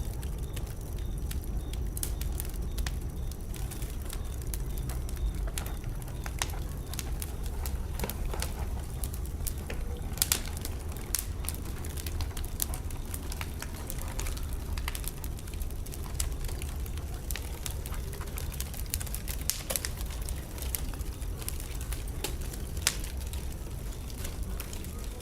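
Wood fire burning in a fireplace: a steady low rumble of the flames with frequent irregular crackles and pops, the sharpest of them about ten seconds in and near the end.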